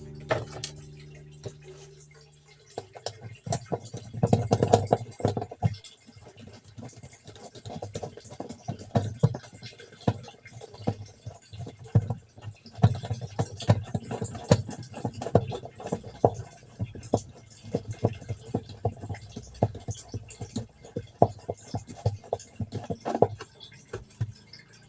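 Irregular small clicks, taps and knocks of hands working on washing machine parts, thickest about four to five seconds in.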